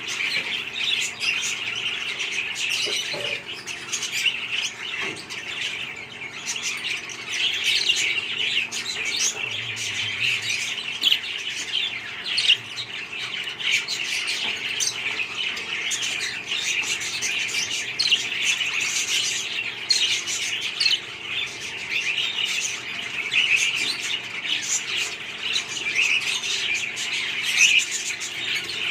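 Several budgerigars chattering together: many overlapping high chirps and warbles without a break.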